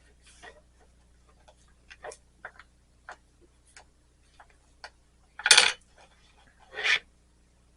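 Light, irregular clicks and taps of small glass and metal pieces and tools being handled on a workbench, with two louder brief scraping knocks about five and a half and seven seconds in.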